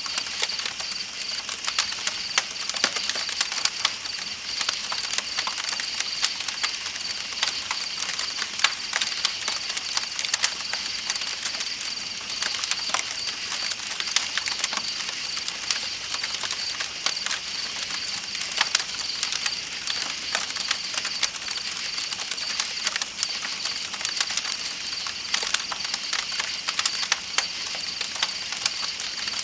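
Campfire crackling, with frequent small irregular pops, over a steady high-pitched chorus of night insects chirping and the constant hiss of flowing river water.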